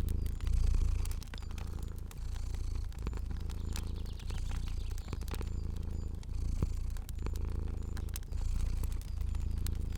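Domestic cat purring steadily, the purr swelling and easing about once a second with its breaths. Sharp, irregular crackles from a fire run over it.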